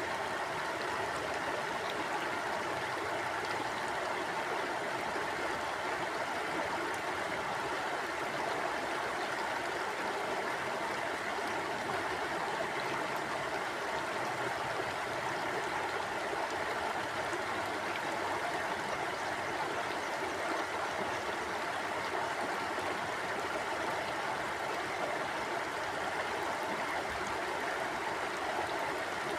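A stream of water flowing steadily over rocks, a continuous even rush with light gurgling.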